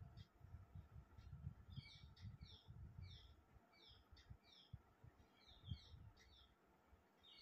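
Faint small-bird chirping: short, quick, downward-slurred chirps repeated in little clusters every second or so, over a soft low rumble, with one brief low thump about three-quarters of the way through.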